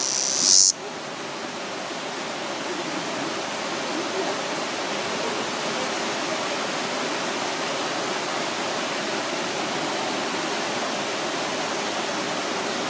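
A cicada's buzzing call cuts off abruptly just under a second in, leaving a steady, even rushing noise.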